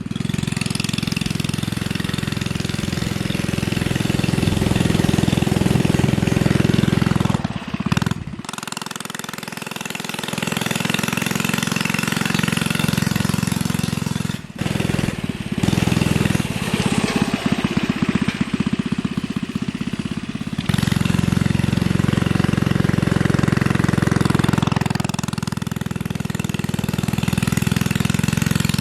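Coleman CT100U minibike's small single-cylinder engine, its governor bypassed, running hard as the bike is ridden. Its speed rises and falls, and it drops back briefly about eight and again about fourteen seconds in before pulling again.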